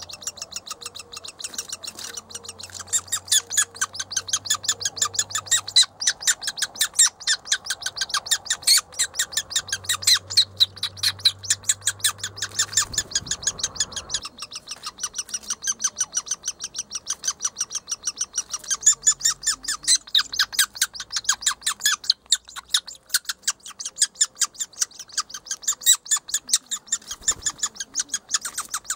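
Woodpecker nestlings calling from the nest hole in a rapid, continuous series of short, high chirps, the begging calls of young in the nest.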